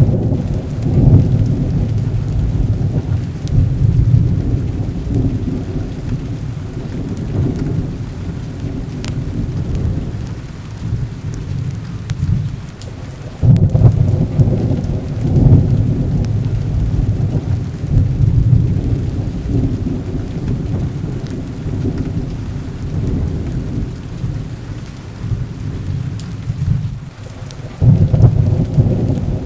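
Heavy rain falling steadily with low rolling thunder; the rumble swells louder near the start, about halfway through, and again near the end.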